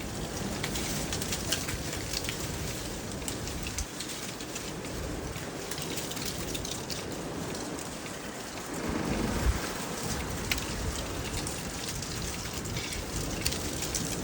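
Strong wind gusting around 55 miles per hour, rushing steadily with a heavier low buffeting gust about nine seconds in and scattered small crackles.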